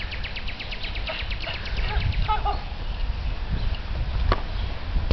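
A bird's rapid chattering trill, about ten notes a second, that stops about two and a half seconds in, over a steady low outdoor rumble. A single sharp click comes about four seconds in.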